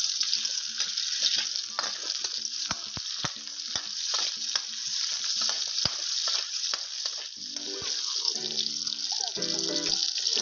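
Sliced onion, ginger and garlic sizzling in hot oil in a metal wok, with a steady hiss and a slotted metal spatula clicking and scraping against the pan as it stirs.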